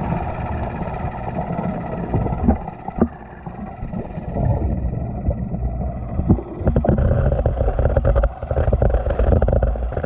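Small battery-powered toy train motor running underwater, a steady drone with water churning around it. Occasional sharp knocks, then rapid clicking and rattling through the second half.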